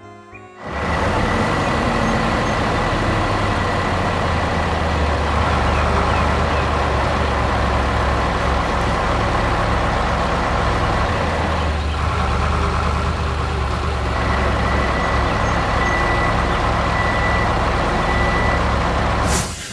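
Heavy vehicle engine running steadily with a deep rumble, as a construction-truck sound effect; it starts about half a second in and cuts off suddenly near the end.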